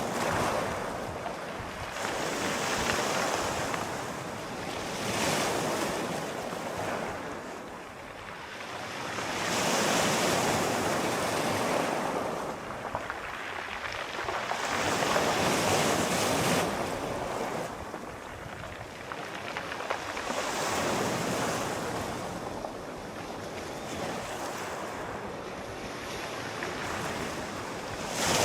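Sea waves breaking and washing up the shore, swelling and falling back every few seconds, with some wind.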